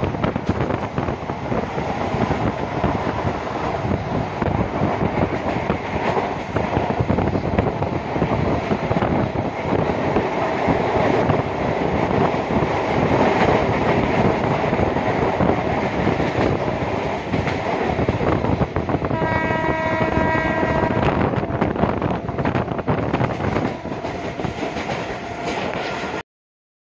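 Mumbai suburban local (EMU) train running at speed, heard from inside the coach: a loud, continuous rumble and rattle of wheels on rails, with clickety-clack over the rail joints. About two-thirds of the way in, a train horn blows for about two seconds. The sound cuts off abruptly just before the end.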